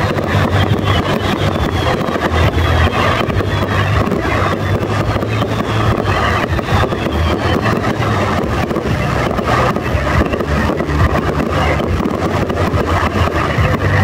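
Fireworks display in a dense, unbroken barrage: many shell bursts and crackling stars going off close together over a steady rumble.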